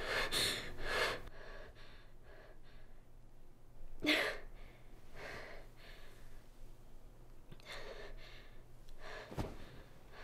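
A woman breathing hard after waking with a start: a few quick breaths at first, then slower, heavier breaths with a gasp about four seconds in. A short sharp click sounds near the end.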